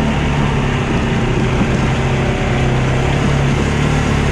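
Polaris 570 four-wheeler's single-cylinder engine running steadily while riding, with a dense steady rushing noise over it.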